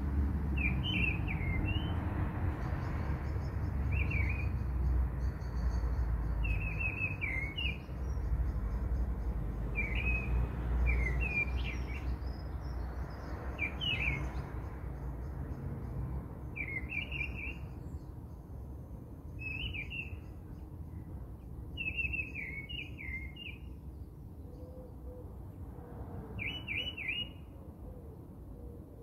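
Small birds chirping: a short, bright trill of a few notes repeats every second or two, with fainter high chirps between, over a low rumbling noise that fades after the first half.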